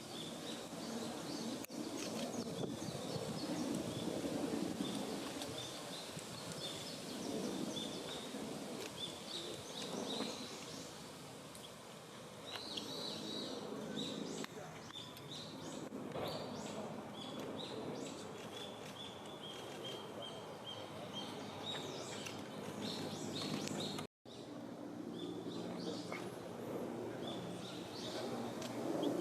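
Woodland ambience: small birds giving short, high chirps and calls over a low, steady background rumble. The sound cuts out completely for a moment near the end.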